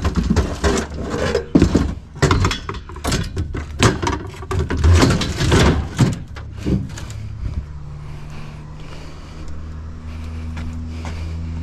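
Scrap being handled and loaded onto a vehicle: a run of knocks and clatters over the first seven seconds or so, then a vehicle engine running steadily with a low hum.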